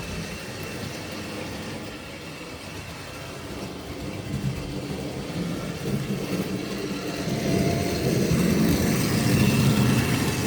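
Tri-ang OO-gauge model train running on the track: the locomotive's electric motor and wheels make a steady mechanical running noise, which grows louder from about halfway through.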